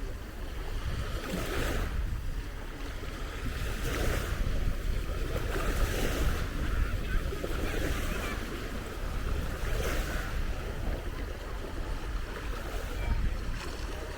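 Sea waves breaking and washing up a beach in repeated surges a few seconds apart, with wind rumbling on the microphone.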